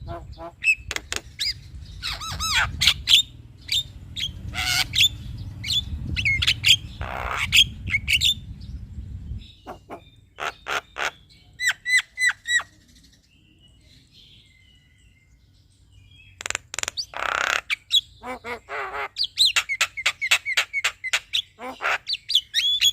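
Male Javan myna (jalak kebo) singing: fast runs of sharp clicks mixed with whistled and harsh chattering notes, breaking off for a few seconds past the middle before starting up again.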